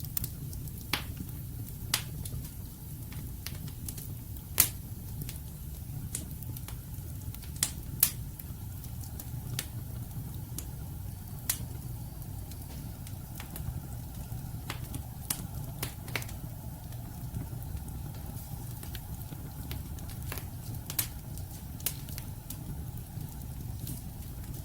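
Wood fire burning in a fireplace: a steady low rumble of flames with irregular sharp crackles and pops from the logs, a few louder pops standing out.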